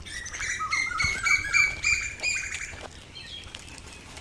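A bird calling in a rapid series of harsh, repeated notes, about four a second, that stops about three seconds in.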